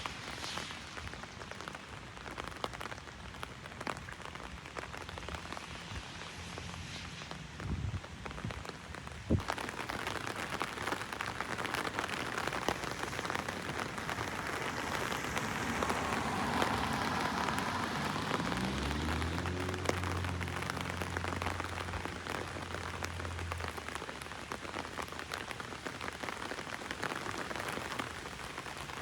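Heavy rain falling on an umbrella, with many single drops ticking on the canopy. It grows louder about a third of the way in. About two-thirds of the way in, a low hum with a short rising tone comes through the rain for a few seconds.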